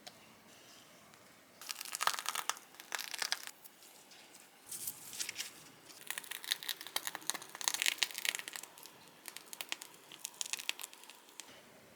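Crinkling and rustling of something being handled, in irregular bursts with a short lull about four seconds in.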